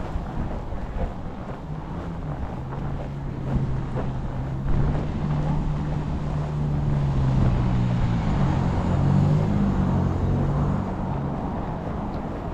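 Wind buffeting the microphone over street traffic. A large vehicle's engine hums low and steady through the middle, shifts slightly in pitch, then fades.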